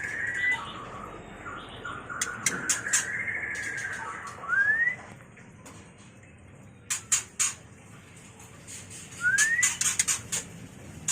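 White-rumped shama (murai batu) giving its mating calls: buzzy chattering phrases in the first few seconds, clusters of sharp clicking chips, and two short rising whistles, one about four and a half seconds in and one about nine seconds in.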